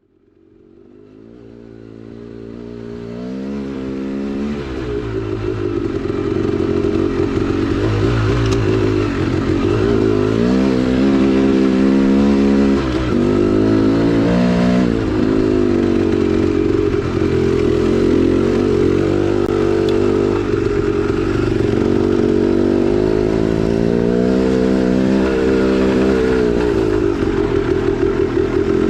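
2010 KTM 300XC-W single-cylinder two-stroke dirt bike engine being ridden on a trail, fading in over the first few seconds. Its pitch rises and falls repeatedly with throttle and gear changes.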